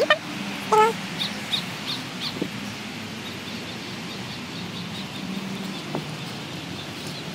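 Bird calls among trees: a short pitched call under a second in, then a run of high chirps about three a second, over a steady low background hum.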